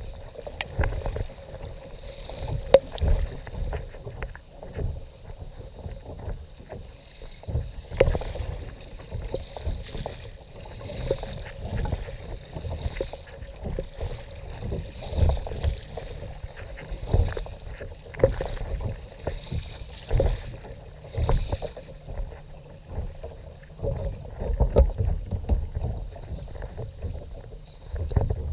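Kayak being paddled: the paddle blades dip and splash about once a second, with low rumble and a few sharp knocks against the hull.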